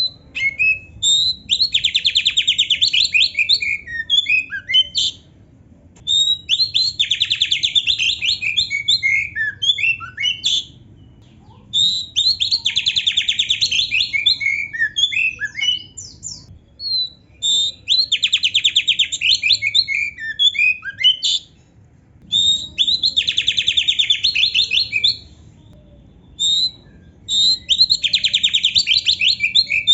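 Oriental magpie-robin (kacer) singing a song packed with canary-like phrases. Bursts of rapid, dense trills and chirps come about every five to six seconds, with short pauses between.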